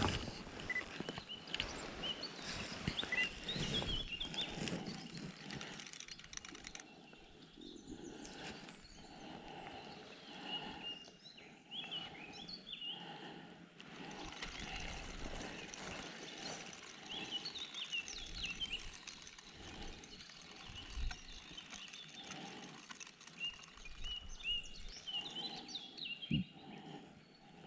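Small birds chirping on and off over a steady outdoor background hiss.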